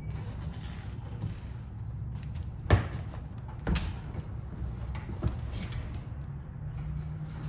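A few sharp knocks, the loudest nearly three seconds in, over a steady low hum.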